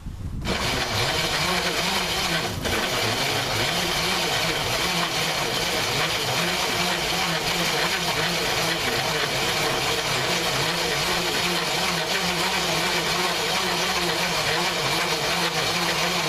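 Pedal-powered MayaPedal corn grinder milling dried corn on its fine setting, taking cornmeal toward flour. A loud, steady grinding noise starts about half a second in and holds without a break.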